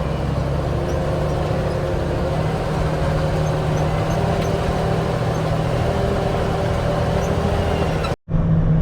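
Diesel engine of a 1974 Kenworth log truck running steadily under load as the truck drives, with a slight rise in engine pitch about two and a half seconds in. The sound cuts out briefly near the end.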